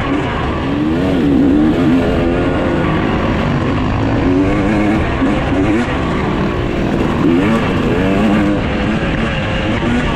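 Dirt bikes riding a motocross track, their engines revving up and down again and again, with more than one bike heard at once.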